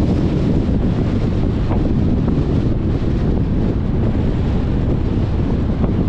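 Wind buffeting the microphone of a camera on a moving car, a steady low rumble mixed with road noise.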